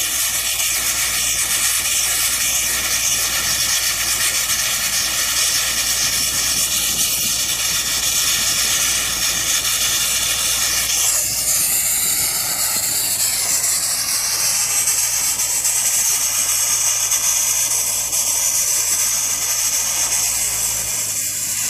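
Sandblasting nozzle blasting abrasive with compressed air in a loud, steady hiss that shifts in tone about halfway through.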